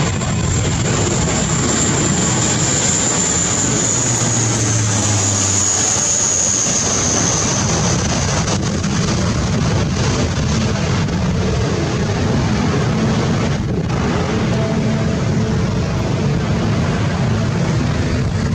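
Lockheed C-130 Hercules' four turboprop engines running loudly and steadily, with a high whine that slowly falls in pitch over the first several seconds.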